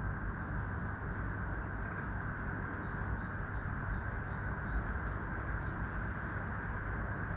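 A steady rushing background noise with faint songbird chirps over it. A few seconds in comes a short run of about six even, high notes.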